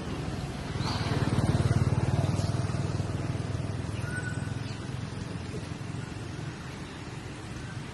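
A vehicle engine, such as a motorbike, passing by: a low drone that swells about a second in and then slowly fades.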